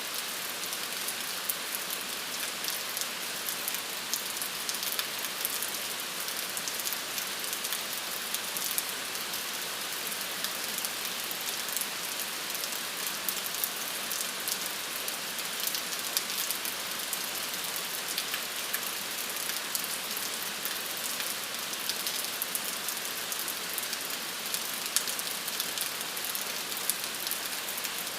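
Steady rain falling, an even hiss with many small drop ticks hitting a surface.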